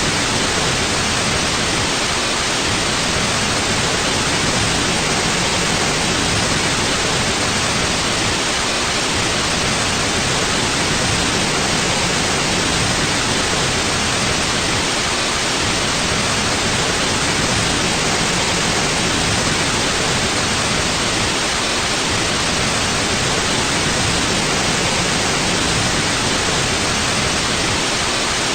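Steady white noise: an even, unchanging hiss with no pauses or events, strongest in the upper range and cut off sharply at the top.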